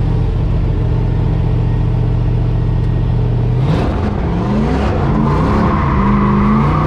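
Drift truck's engine held at steady revs, then a clutch kick about three and a half seconds in: a sudden burst of noise, and the engine's pitch swings down and back up as the clutch is dumped to break the rear tyres loose.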